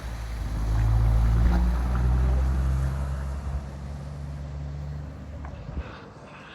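Heavy truck engine running as it hauls an oversize load past, loudest about a second in, then fading away, with the low rumble dropping out near the end.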